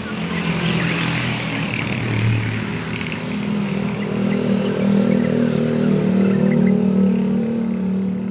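A motor vehicle driving past close by, its engine swelling up, staying loud for several seconds and then fading away.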